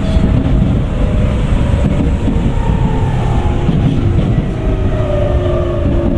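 Tokyu 9000 series electric train heard from inside the car, its early Hitachi GTO-VVVF traction inverters whining over a heavy rumble of wheels and running gear. The inverter whine has a few tones that fall gently in pitch.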